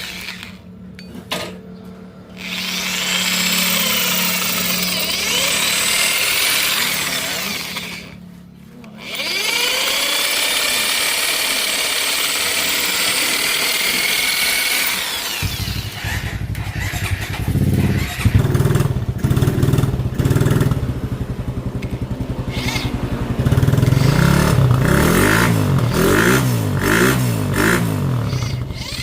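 A power tool runs at high speed in two long stretches, its pitch wavering as it bites. About halfway through, a motorcycle engine starts running and revs up and down near the end.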